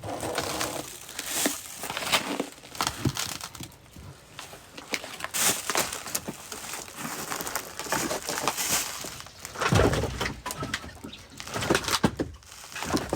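Irregular rustling, crinkling and clicking of things being handled, with a heavier thump about ten seconds in.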